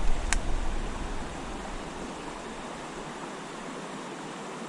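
Steady rushing of flowing creek water, with one sharp click about a third of a second in and a low rumble that fades out over the first second and a half.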